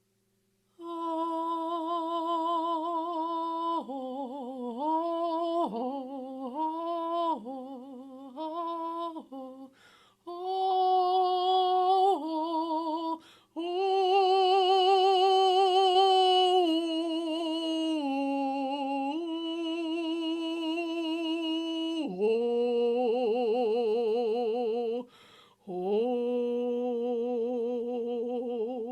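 A single voice singing wordless channeled sound-healing tones: long held notes with a wavering vibrato, sliding and stepping in pitch, in phrases broken by short pauses for breath.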